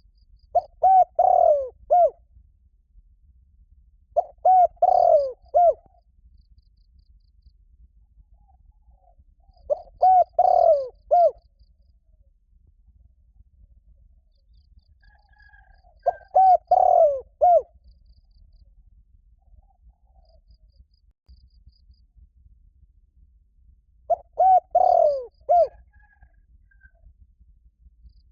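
Spotted dove cooing: five calls several seconds apart, each a short phrase of three or four notes.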